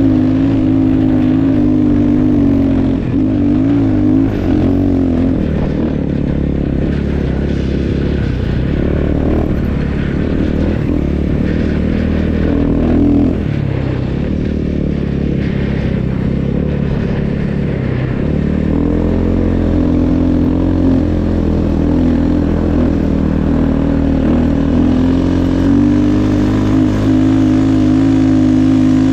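Snow bike (a dirt bike fitted with a snow track kit) running under way, its engine note rising and falling with the throttle. The engine drops lower and rougher through the middle, then picks up again a little past halfway.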